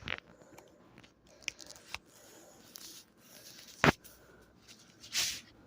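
Containers and packages being handled on refrigerator shelves: a few faint clicks, one sharp knock about four seconds in, and a brief rustle a second later.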